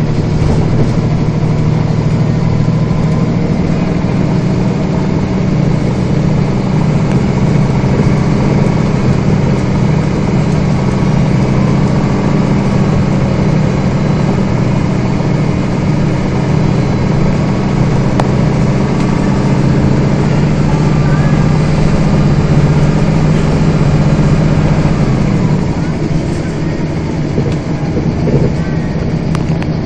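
Scania bus's diesel engine running on the move, heard from inside the bus as a steady low drone with road and cabin noise. The drone drops about 25 seconds in as the engine eases off.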